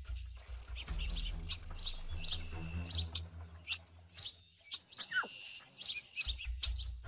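Birds chirping in short, repeated calls over a low rumble, with one falling whistle about five seconds in.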